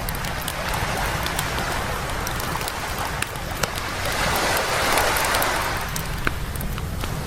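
Waves washing up on a beach, two rising and falling washes, the second louder about five seconds in. Throughout, a wood campfire crackles with scattered sharp pops.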